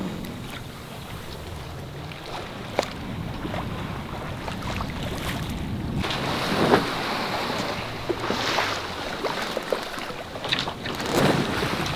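Sea water washing and sloshing along the hull of a sailing yacht in light wind, swelling in several surges, with wind on the microphone and a few sharp clicks or knocks.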